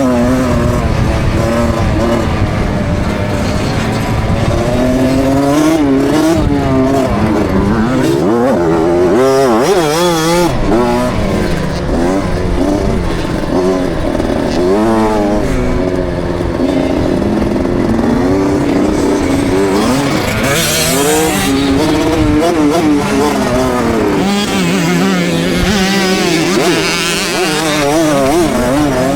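KTM 65 SX two-stroke single-cylinder motocross engine, heard from the rider's helmet camera, revving up and down continually as the bike is ridden around the track, with repeated sharp climbs in pitch under throttle.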